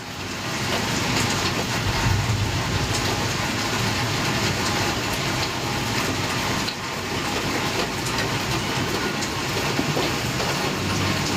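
Heavy rain falling steadily during a thunderstorm, a dense, even hiss.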